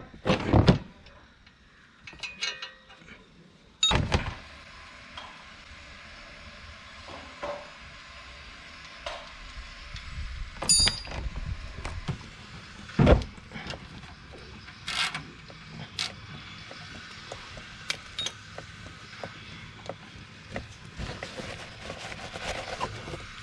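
Wrench and drain-plug handling under a Porsche 911 GT3 during an oil change: scattered sharp clicks and knocks of metal tools and plugs, over a faint steady hiss.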